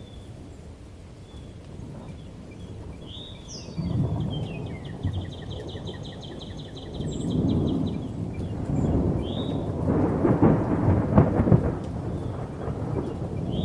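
Thunder rumbling over steady rain. The rumble builds from about four seconds in and is loudest, with cracks, around ten to eleven seconds in. Birds chirp above it, with one rapid trill a few seconds in.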